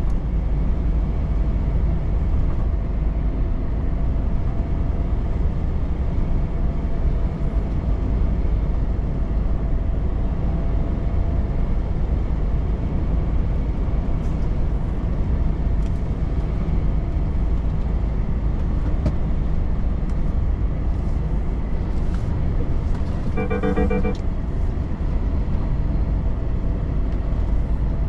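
Volvo FH truck driving at road speed: steady engine and tyre drone. About 23 seconds in comes a short pitched tone, like a horn, lasting just under a second.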